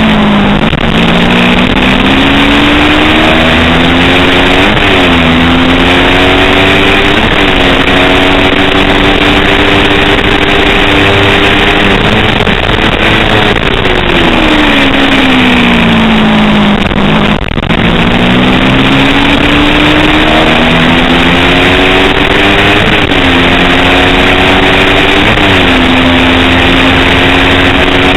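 250 cc racing motorcycle engine at full throttle. Its pitch climbs and drops sharply through several quick upshifts, holds at high revs, then falls for several seconds as the bike slows and shifts down, and climbs through upshifts again. A loud steady rush of noise runs underneath.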